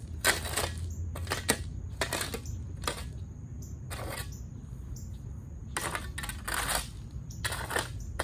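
Small decorative stones clattering as they are dropped and spread around a brick fire pit ring: about ten short rattling bursts at uneven intervals.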